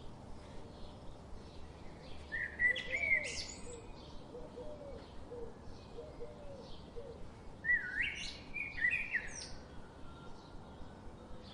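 Several wild birds chirping and singing, with many short high chirps throughout and two louder song phrases, about two and a half and seven and a half seconds in.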